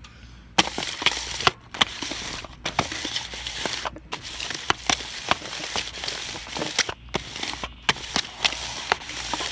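Crackling, crinkling handling noise with many sharp clicks and taps, the sound of food and plates being handled close to the microphone.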